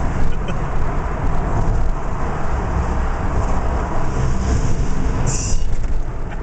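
Steady rumble of a 2001 Ford Crown Victoria Police Interceptor's 4.6-litre V8, tyres and wind heard from inside the cabin at high speed. A brief high hiss cuts in about five seconds in.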